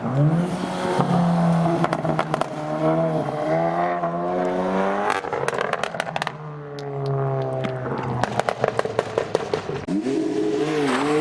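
Car engine revved hard twice, the pitch climbing and then falling away, with rapid exhaust crackles and pops as the revs drop.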